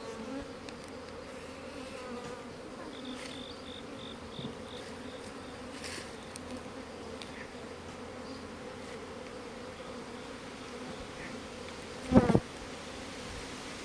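Honeybees buzzing around open beehives: a steady hum of many wings. About twelve seconds in there is a brief, much louder sound.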